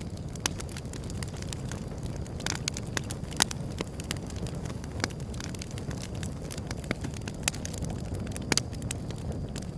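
Wood fire crackling, with sharp irregular pops and snaps over a steady low rumble; the loudest pop comes about three and a half seconds in.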